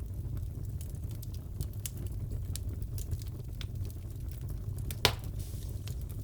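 Wood fire in a fireplace crackling, with a steady low rumble and scattered small pops, and one louder pop about five seconds in.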